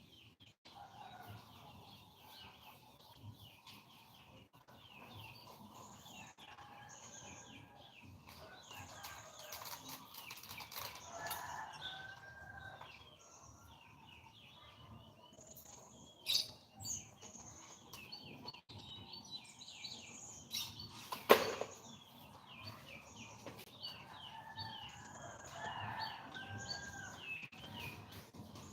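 Many small birds chirping and twittering over one another in quick, short notes. A sharp knock stands out about two-thirds of the way through.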